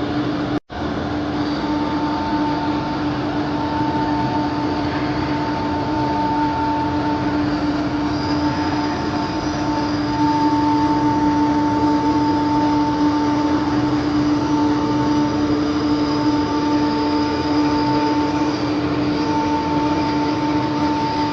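Two-head CNC router, model HT-1325P2, running and machining: a steady low whine with a higher tone that comes and goes over a dense grinding noise. The sound cuts out for a split second near the start.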